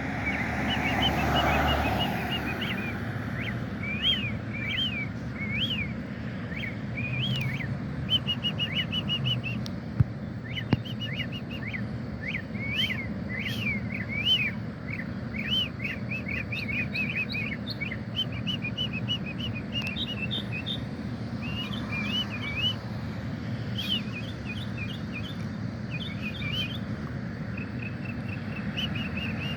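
A bird singing a long, varied song of quick up-and-down chirps and short rapid trills, phrase after phrase with short pauses. A brief rushing noise comes in the first two seconds.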